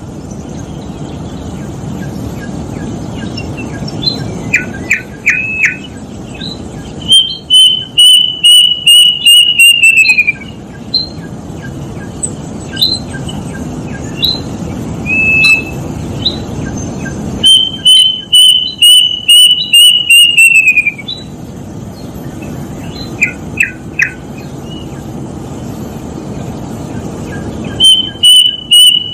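Plaintive cuckoo (kedasih) singing: three runs of about eight to ten clear whistled notes, each run lasting about three seconds and falling in pitch at its end, roughly ten seconds apart. Short chirps come between the runs, over a steady background hiss.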